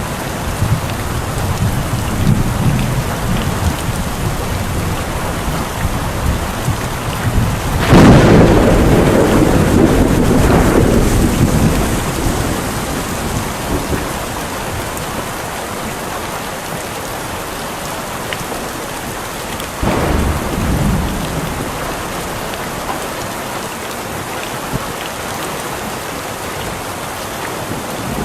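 Steady rain falling, with a loud clap of thunder about a third of the way through that rumbles on for several seconds, and a second, weaker thunderclap later.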